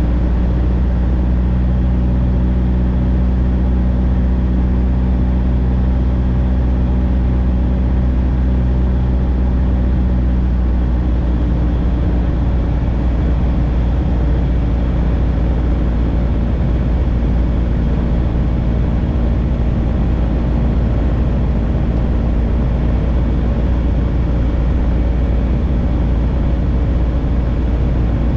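Light airplane's engine and propeller droning steadily. About eleven seconds in, the engine's tone shifts as the engine speed changes.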